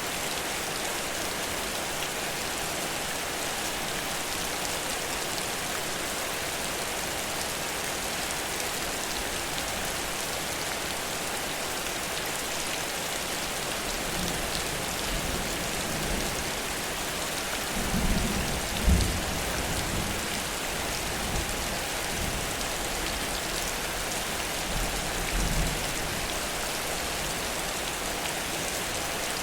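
Heavy rain falling in a steady hiss. A few short low rumbles come in from about halfway through, the loudest about two-thirds of the way in.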